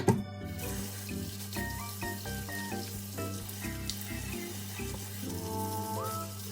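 Kitchen tap running steadily into a sink, with a sharp knock right at the start. Background music plays over it.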